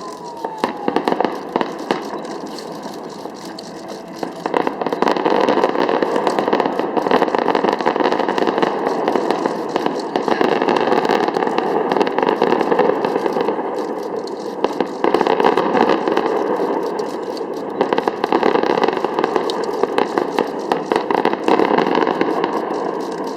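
Fireworks display going off: a dense, continuous crackle of many small bangs, growing louder about five seconds in. A falling whistle dies away in the first second.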